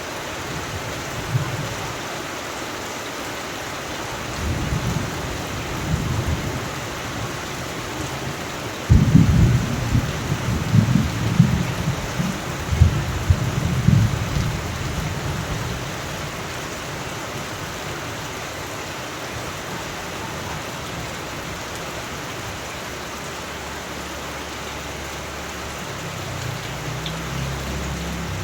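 Steady rain with thunder: a low rumble about five seconds in, then a sudden loud clap about nine seconds in that rolls on for several seconds before the rain alone carries on, with a fainter rumble near the end.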